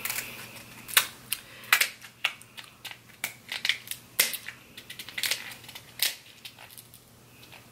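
Crab leg shells cracking and snapping as they are broken open, a run of sharp, irregularly spaced cracks.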